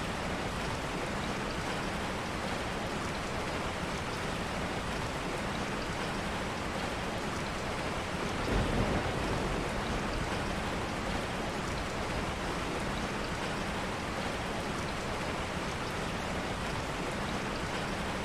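Steady rain falling on leaves, an even hiss of many drops, with a brief low rumble swelling up about halfway through.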